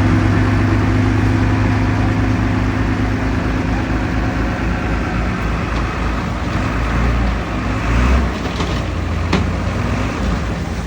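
Heavy diesel engine of earthmoving machinery running steadily with a deep hum, its higher tone fading about halfway through, and a couple of metallic knocks near the end.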